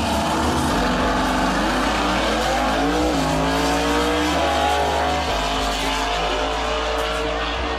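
Drag-racing cars accelerating hard off the line at full throttle, engine notes rising in pitch and dropping back at each gear change.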